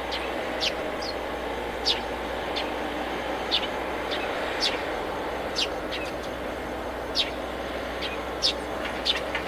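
A small bird chirping over and over: short, high notes that fall quickly in pitch, roughly one a second and unevenly spaced, over a steady background hiss.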